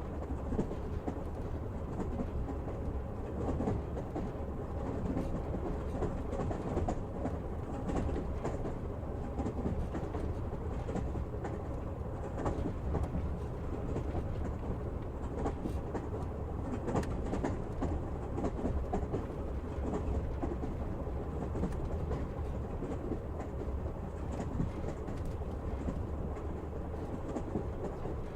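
A train running on rails: a steady rolling rumble, with the wheels clicking over the rail joints now and then.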